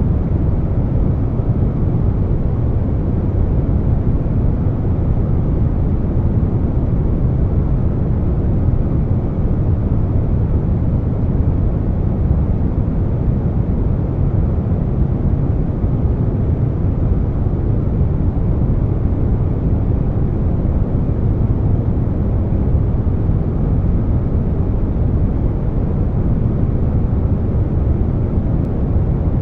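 Steady air conditioner noise layered with brown noise: an even, deep rushing sound weighted toward the low end, with no changes.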